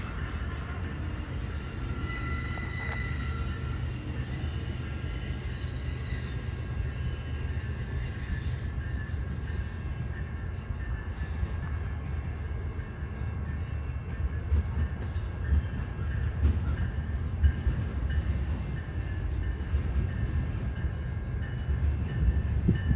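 A train passing: a steady low rumble of rolling stock, with louder irregular wheel knocks over the rail joints in the second half.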